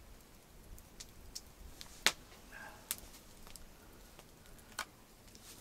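Wood campfire crackling: about half a dozen sharp, irregular pops, the loudest about two seconds in.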